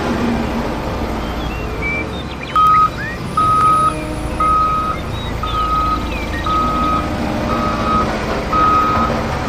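A vehicle's reversing alarm beeping about once a second, seven beeps starting a few seconds in, over a steady low engine rumble.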